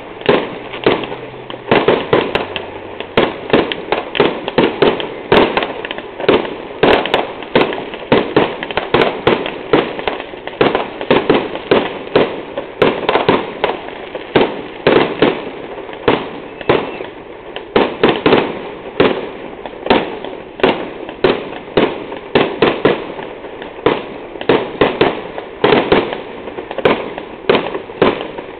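Aerial fireworks display: shells bursting in quick succession, a dense, continuous string of sharp bangs, several a second.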